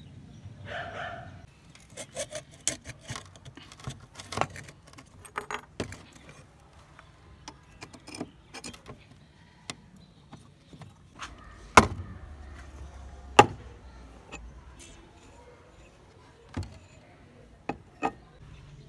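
Small metal parts of a lamp clinking and clattering as they are handled, a string of irregular sharp clicks and knocks. The two loudest knocks come about twelve and thirteen and a half seconds in.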